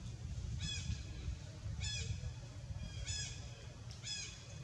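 A bird calling repeatedly: four short, high, arched calls, about one every second and a quarter, over a steady low rumble.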